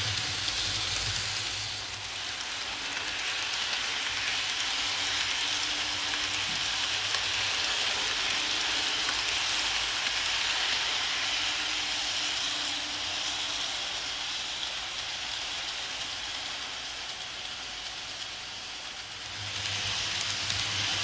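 KATO N gauge model of the E353 series electric train running on the layout track: a steady hiss and whir of the small motor and wheels on the rails, swelling and fading slowly. A low hum drops away about two seconds in and comes back near the end.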